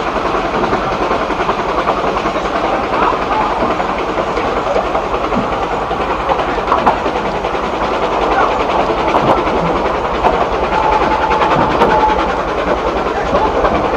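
Narrow gauge steam train running uphill, heard from the carriage: a steady rumble of wheels and carriage with clatter over the rail joints. A steady high squeal sets in about eleven seconds in.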